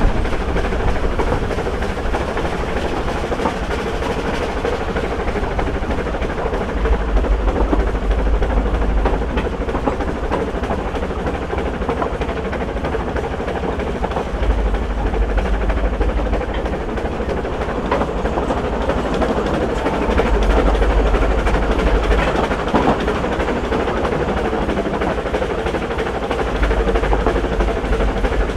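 Narrow-gauge steam train running, with the steady clatter of carriage wheels on the track and a deep rumble that swells every few seconds.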